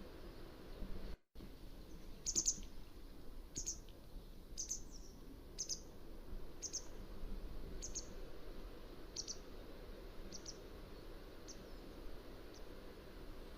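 Mountain wagtail calling: a series of short, high notes about one a second, growing fainter toward the end. A brief cut to silence about a second in.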